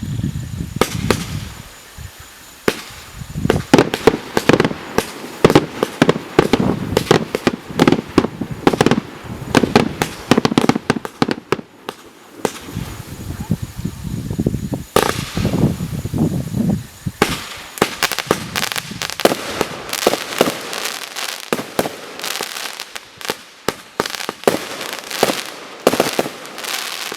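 Final Curtain garden firework going off: a rapid, dense run of loud bangs and crackles. There is a brief lull about twelve seconds in, then it carries on with quicker, lighter crackling toward the end.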